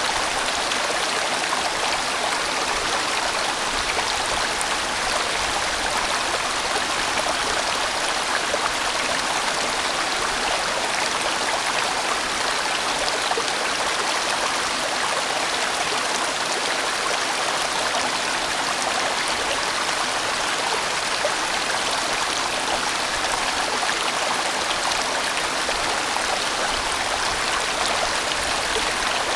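A large mountain stream rushing and splashing over rocks in a steady, even flow.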